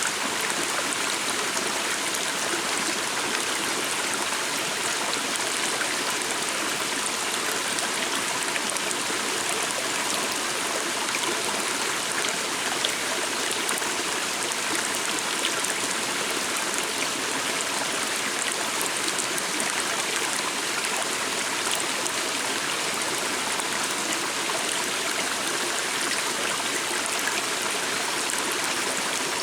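Small stream flowing steadily: an even, unbroken rush of water.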